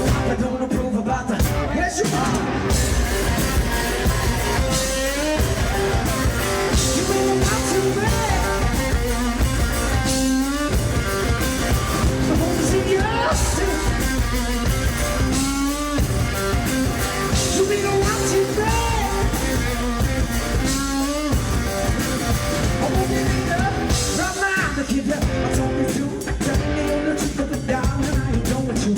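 Live rock song played by a guitar-and-drums duo: electric guitar and drum kit with a man singing over them, recorded from the audience.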